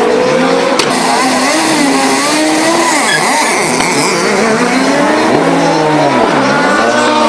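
Rally car engine at high revs, its pitch climbing and dropping again and again as it works through the gears and lifts off, with a deep dip near the end. A single sharp crack about a second in.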